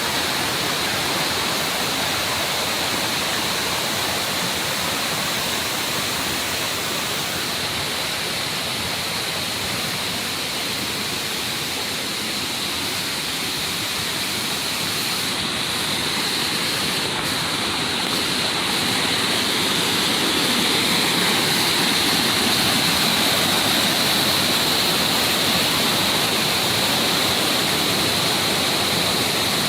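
Mountain valley stream flowing, a steady rushing wash of water that gets slightly louder about two thirds of the way through.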